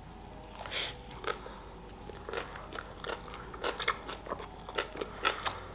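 A person biting into a burger, then chewing it close to the microphone, with a string of small mouth clicks.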